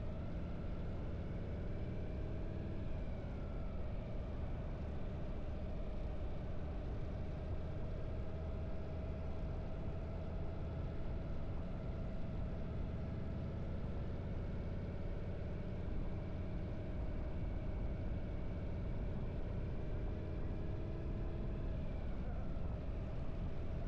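Harley-Davidson air-cooled V-twin motorcycle engine running steadily under way.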